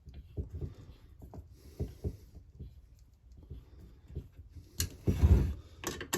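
Irregular light knocks and clicks of hand tools against the metal chainsaw crankcase as its bolts are nipped up, with a louder clatter about five seconds in.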